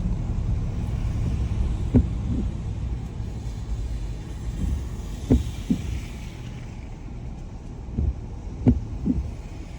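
Car interior on a wet road: a steady low rumble of tyres and engine that eases off after about six seconds. Short knocks come in pairs about every three and a half seconds, in the rhythm of windshield wipers sweeping in the rain.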